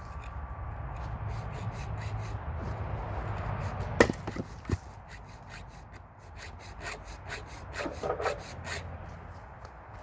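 Split firewood knocking and clattering: one sharp wooden knock about four seconds in, a smaller one just after, and a few lighter knocks near the end. A steady low hum runs underneath.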